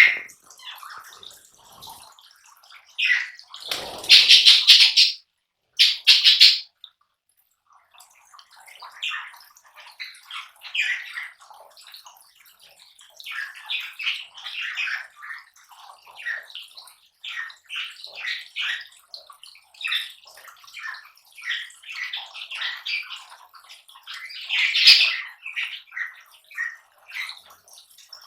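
Lovebirds shredding palm leaves: a busy, uneven run of crackling, rustling and tearing. There are louder bursts about four and six seconds in and again near the end.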